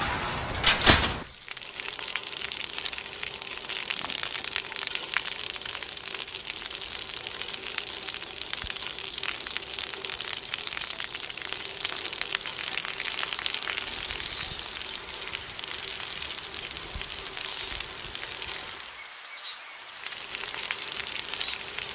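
Steady rain falling, dense and pattering, with a few faint high bird chirps in the second half. A sudden loud crack, struck twice, comes just under a second in.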